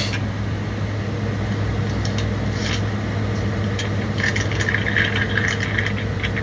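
Semi truck's diesel engine heard from inside the cab, a steady low hum, with cab rattles and clicks throughout and a brief squeal about four seconds in.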